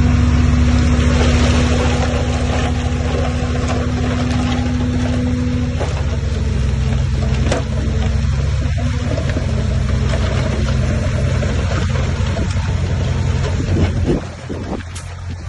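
Heavy diesel engine of an earthmoving machine running steadily, with a faint held whine that stops about six seconds in; the sound drops briefly near the end.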